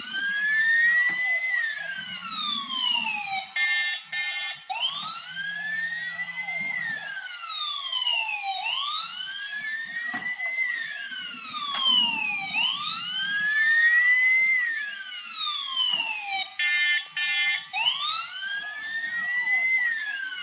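Battery-operated toy fire truck's electronic siren: a slow wail that rises and then falls, repeating about every four seconds, with quicker falling sweeps above it and a short buzzing horn tone twice.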